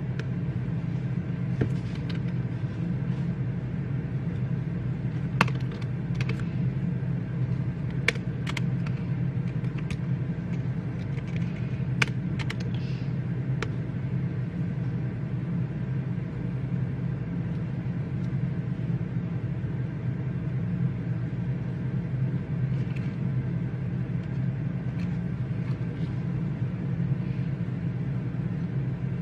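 Library reading-room ambience: a steady low hum with scattered small clicks and taps, most of them in the first half, typical of keyboard keys being struck now and then.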